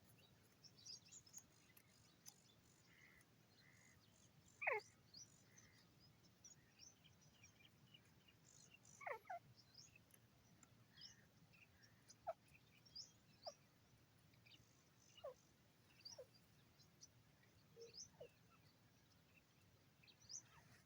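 Scattered faint bird calls: short high chirps and several quick whistles that slide steeply down in pitch, the two loudest about 5 and 9 seconds in.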